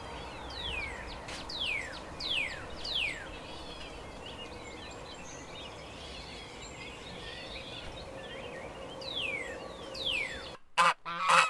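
European goldfinches calling and twittering: a run of short downward-sliding whistled notes, about four in the first three seconds and a few more near the end, with soft twittering between. Just before the end it cuts to loud honking of greylag geese.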